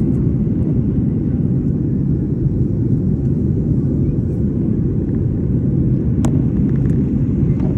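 Steady low rumble of an airliner's engines and rushing air, holding an even level, with one sharp click about six seconds in.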